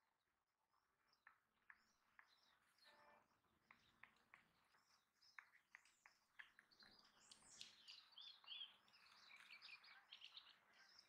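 Near silence with a few faint clicks, then faint bird chirping in the background from about seven seconds in.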